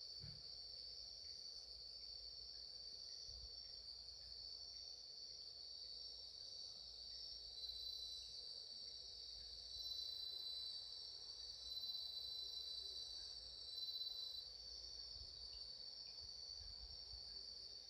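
Singing insects making a steady high-pitched trill. A second, slightly lower trill joins about halfway through and drops out a few seconds before the end.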